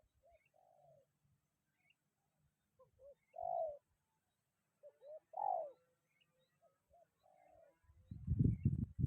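Spotted dove cooing: about four phrases, each a couple of short coos followed by a longer rolling coo, the loudest in the middle. About eight seconds in, a loud low rumble of wind buffeting the microphone sets in.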